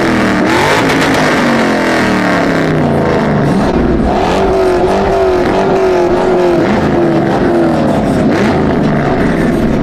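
Truck engine revving: the pitch falls off over the first few seconds, is held at a steady high rev for several seconds, then drops again near the end.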